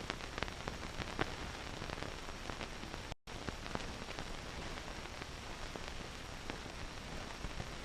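Hiss and crackle of an old film soundtrack, with scattered faint clicks and a brief dropout about three seconds in.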